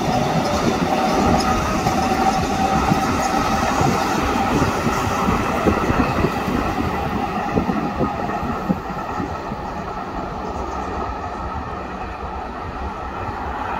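Hokuso Railway 7300-series electric commuter train running along the track: a continuous rumble of wheels on rail with a steady whine, and clicks from the wheels in the middle. The sound eases off in the last few seconds.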